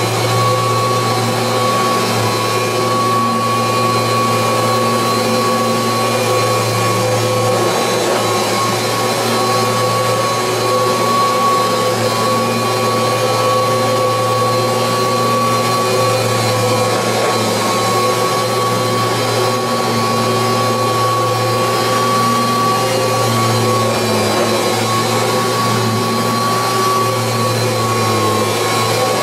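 1986 Kirby Heritage II upright vacuum cleaner running steadily, its motor giving a constant high whine over a low hum.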